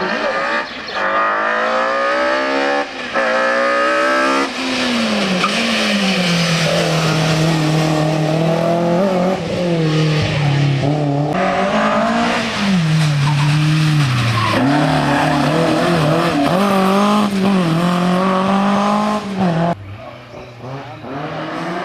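Historic rally car engine revving hard on a special stage: sharp rising sweeps as it climbs through the gears, then held at high revs with dips and rises as the driver lifts off and accelerates again. The sound drops away abruptly about twenty seconds in, then rises again at the end.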